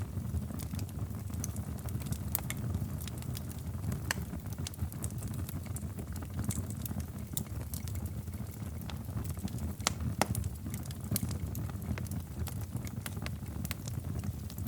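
Crackling fireplace fire: a steady low rumble of burning with frequent irregular pops and crackles, a few sharper pops around 4 and 10 seconds in.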